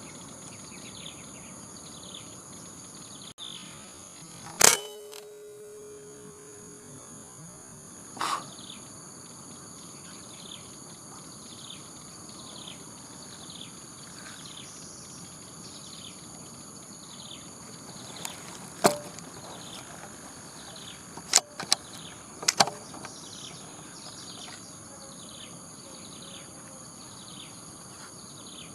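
A PCP air rifle firing a single sharp shot about five seconds in, with a brief ringing tone after it, followed later by a few quieter sharp clicks and pops, typical of the rifle being handled and reloaded. Behind it, insects keep up a steady high buzz with short repeated falling chirps.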